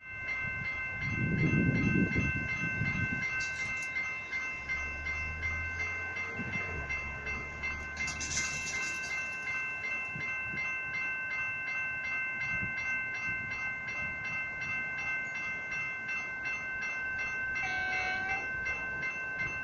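Railway level crossing warning bells ringing steadily in a fast, even rhythm. A low rumble passes about two seconds in, and a short horn-like tone sounds near the end.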